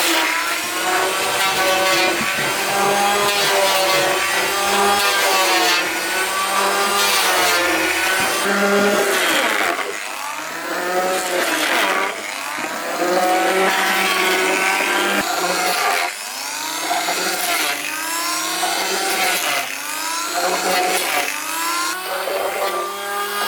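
Electric power tool cutting wood: its motor whines steadily, then in the second half the pitch repeatedly dips under load and climbs back as each cut bites.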